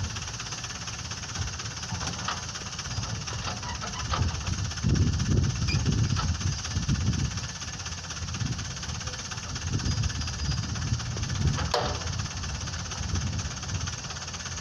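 Dump truck's diesel engine running, its low rumble swelling and easing as the revs rise and fall.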